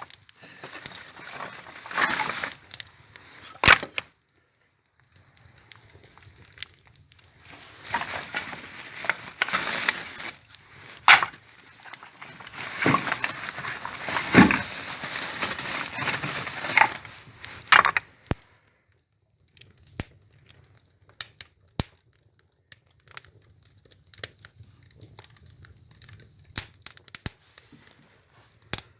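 Wooden lining-board offcuts being handled and loaded into a wood stove's firebox: rustling, knocks and clatter of wood on wood and metal. In the last third this gives way to sparse sharp crackles of the wood fire.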